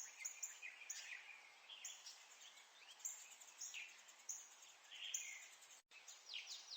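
Faint, high-pitched chirping: many short falling chirps, a few a second, over a low hiss.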